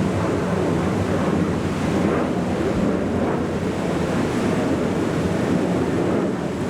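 Steady wind noise on the microphone mixed with water and the low rumble of boat engines.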